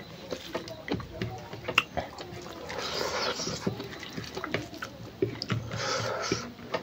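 Close-up wet chewing and lip-smacking of a person eating rice and smoked pork by hand, a string of quick wet mouth clicks, with two longer wet, rushing stretches about three and six seconds in.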